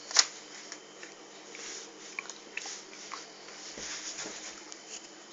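Handling noises: a sharp click about a fifth of a second in, then soft rustling and a few light taps.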